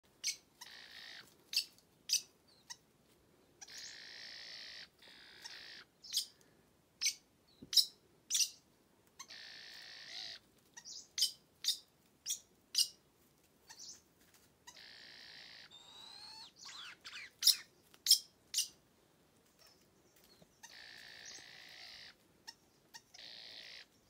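Wild birds calling in forest: many short, sharp, high chirps scattered throughout, mixed with about six harsh, buzzy calls roughly a second long and a few sliding whistled notes about two-thirds of the way in.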